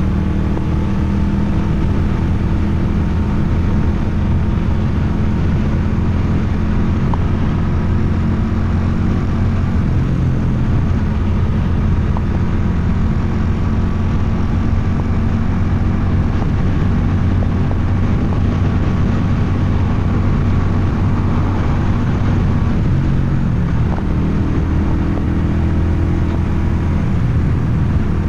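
Motorcycle engine and aftermarket exhaust running steadily while riding, with wind and road noise. The engine note shifts a couple of times, about a third of the way in and again near the end, as the revs change.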